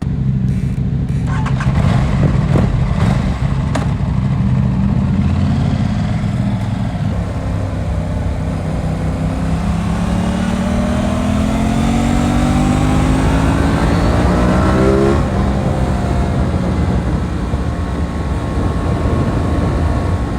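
Aprilia RS 660 parallel-twin engine under way, the revs climbing steadily for about five seconds under acceleration, then dropping sharply about fifteen seconds in as the throttle is closed or a gear is shifted, before running on steadily.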